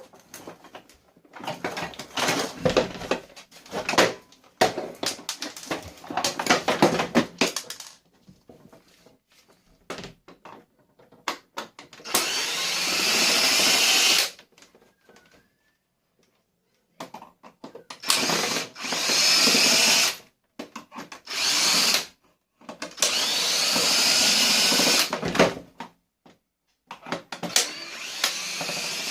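Plastic vacuum-cleaner parts clattering and knocking while it is being taken apart, then a power drill running in several separate runs of two to three seconds each, removing screws as the machine is stripped for scrap.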